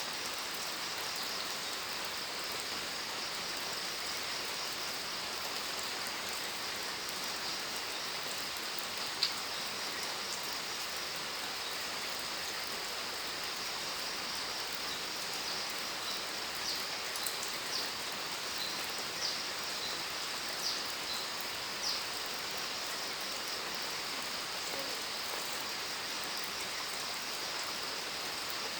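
Steady rain falling, an even hiss, with a few louder individual drops: one sharp drip about a third of the way in and several more spaced out past the middle.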